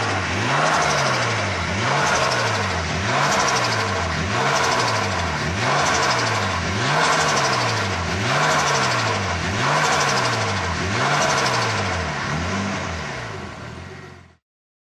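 Nissan Skyline R33 GTS-T's freshly rebuilt RB25DET turbocharged straight-six being revved over and over on its first run, rising and falling about every second and a half. It fades near the end and then cuts off suddenly.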